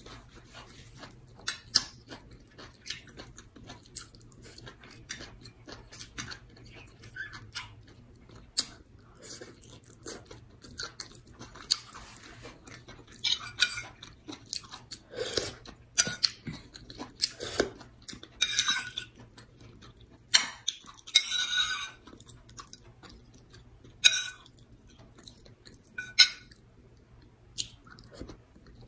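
Close-up mouth sounds of a person eating rice and soupy dinengdeng vegetables with her fingers: irregular chewing and lip smacks, with several longer, louder wet sucking or slurping sounds in the middle.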